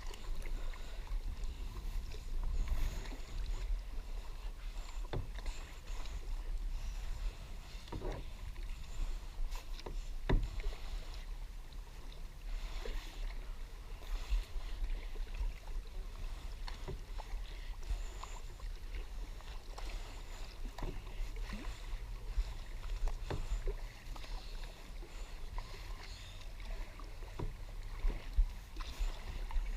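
Kayak being paddled across a lake: paddle strokes in the water and a few sharp knocks of the paddle against the hull, over a steady low rumble.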